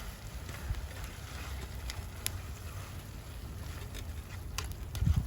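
Wind rumbling on the microphone, with a few sharp pops from the wood fire burning under the pan. A low thump comes near the end.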